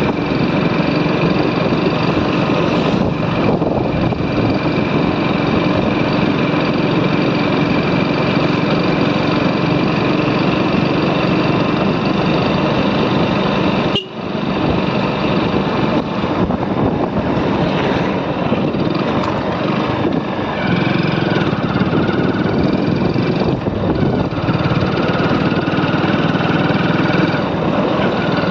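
Motorcycle engine running steadily while riding. There is a brief dip about halfway through, and the engine note changes a little about two-thirds of the way in.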